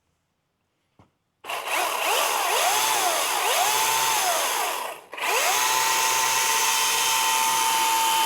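Milwaukee M18 top-handle battery chainsaw's direct-drive electric motor and chain, first after a small click. It spins up in two short revs that whine up and back down, stops briefly about five seconds in, then runs at a steady full-speed whine.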